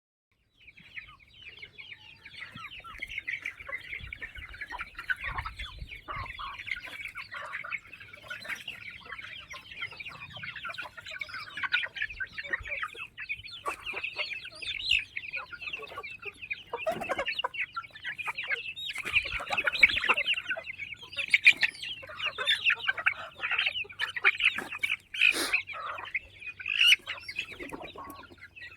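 A flock of chickens clucking and cheeping, many short high calls overlapping without a break, with a few louder single calls standing out in the second half.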